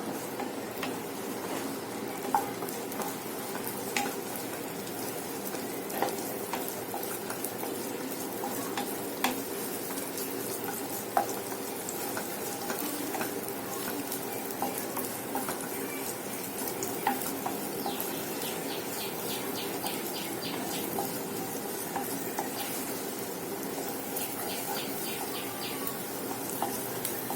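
Chopped coconut slices frying in coconut oil in a pan with a steady sizzle, while a spoon stirs them and clicks against the pan every second or two, with short spells of quick scraping.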